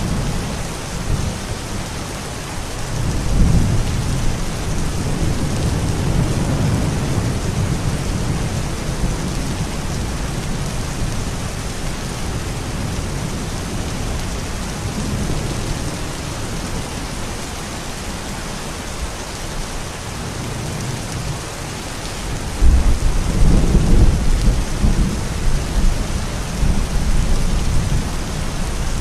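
Steady heavy rain hissing, with thunder rumbling low: a swell a few seconds in, and a louder clap of thunder breaking in suddenly about two-thirds of the way through.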